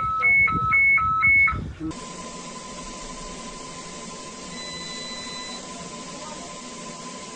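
Two-tone electronic alarm beeping high-low, high-low, about two cycles a second, aboard a ship that is taking on water after a drone strike. It cuts off about two seconds in, and a steady hiss with a faint steady tone follows.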